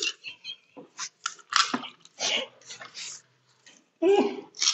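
Pani puri being crunched and chewed: crisp, hollow golgappe puris filled with spiced water, bitten whole and chewed quickly. There are many short, irregular crunches with brief gaps between them, and a louder stretch about four seconds in.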